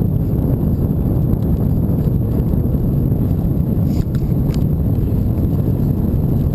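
Wind buffeting the microphone during a bicycle ride, a steady low rumble, with a couple of faint ticks about four seconds in.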